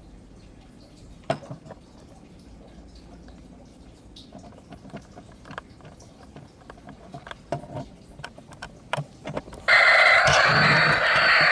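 Scattered clicks and knocks of a plastic toy being handled, then near the end a battery-powered toy switches on with a loud electronic tune.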